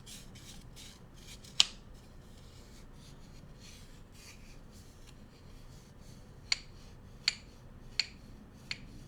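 Bamboo cooking utensils handled close to the microphone: soft rubbing and brushing, a single sharp click about one and a half seconds in, then four sharp clicks spaced under a second apart in the last third.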